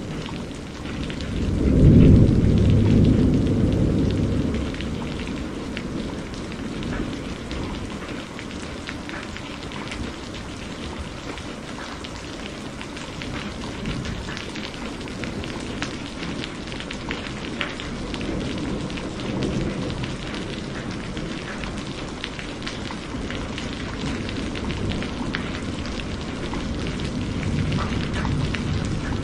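Steady heavy rain hissing, with many sharp drop hits. It is joined by thunder: a loud low rumble swells about two seconds in and dies away over a few seconds, and fainter rumbles follow later.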